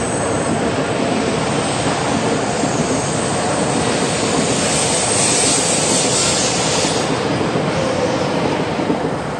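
E5 series Shinkansen train pulling out of the platform and gathering speed: a steady rush of wheel and running noise. A high hiss grows louder about four seconds in and drops away about seven seconds in.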